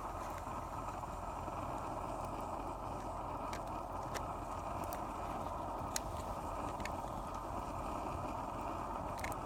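Wood bonfire burning, with a few sharp scattered pops and crackles over a steady rushing noise.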